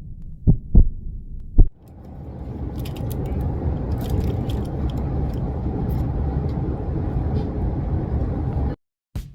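Train running on the rails, heard from inside the carriage: dull paired thumps about a second apart as the wheels cross rail joints, then a steady rumble that builds over about a second and holds, cutting off suddenly near the end.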